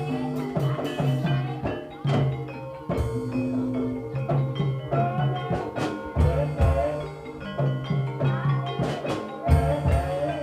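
Javanese gamelan music accompanying an ebeg (kuda lumping) trance dance: drum strokes over ringing bronze gongs and metallophones, with a wavering melodic line above.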